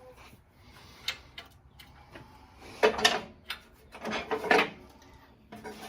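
Hand tools and metal parts clinking and clattering during an engine teardown. There is a sharp click about a second in, then two louder bursts of clatter about three seconds and four and a half seconds in.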